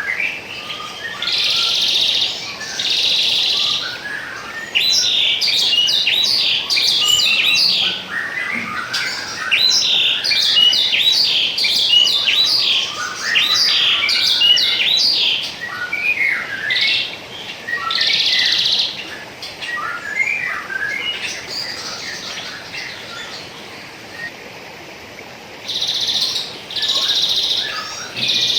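Songbirds chirping and singing in quick runs of notes, with several buzzy trills about a second long, over a faint steady rush of flowing water.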